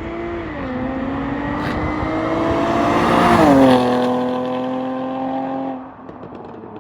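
Jaguar F-Type's supercharged 3.0-litre V6, on its stock exhaust in sport mode, revving hard under acceleration with one quick upshift. It goes past, loudest about three and a half seconds in, where the pitch drops sharply, then fades away.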